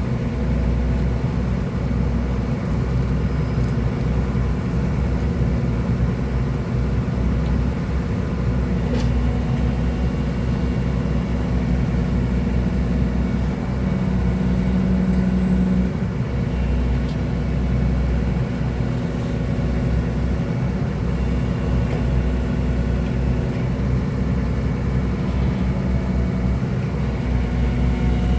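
Excavator's diesel engine running steadily, with a stronger engine tone for a couple of seconds around the middle.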